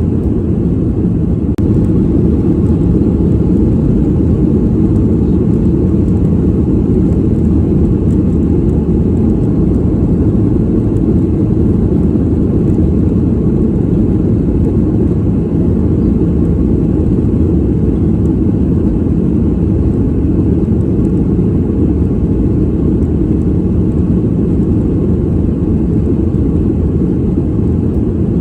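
Airliner cabin noise heard from a passenger seat: a steady, deep rumble of engines and airflow with no change throughout.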